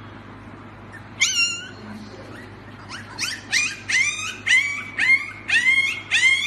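A small dog yipping: one high call about a second in, then a quick run of high-pitched yips, about three a second.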